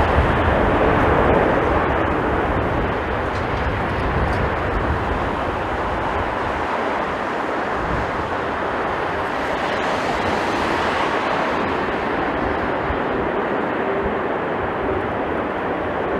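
A Boeing 747-8 freighter's four GEnx-2B turbofan engines rumbling as a steady wash of noise, a little louder in the first couple of seconds. Gusty strong wind buffets the microphone underneath.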